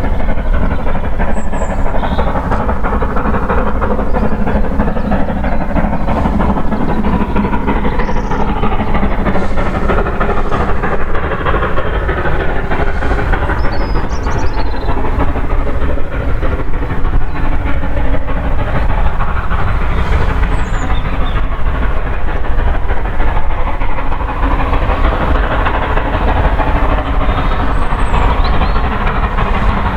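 A train running past on the rails: a steady, continuous rumble with the clickety-clack of wheels over rail joints.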